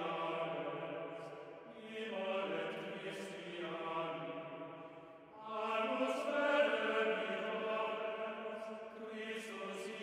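Slow chant-like choral music with long held notes, in phrases that swell about two seconds in, again about halfway through, and near the end.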